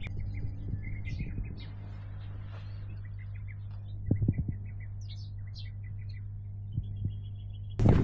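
Small birds chirping in short, scattered notes over a steady low hum, with brief low thumps about four seconds in and again at the end.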